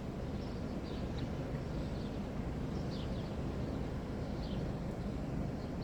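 Steady low outdoor rumble with several faint, short high bird chirps scattered through.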